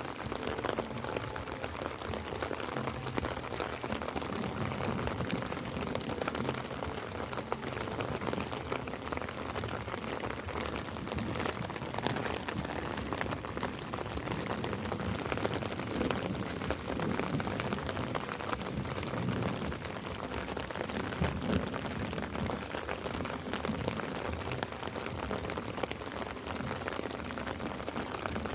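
Light rain falling steadily, a constant patter of drops.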